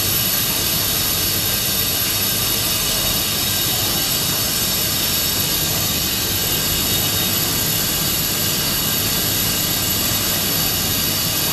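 Industrial roll-fabric washing machinery running: a steady, loud mechanical noise with a constant high whine.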